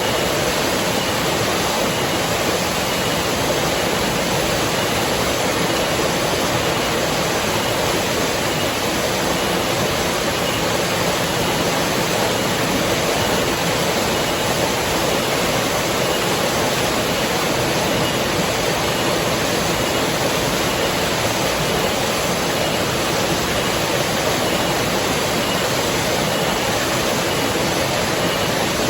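River water rushing, a steady even rush of noise with no changes.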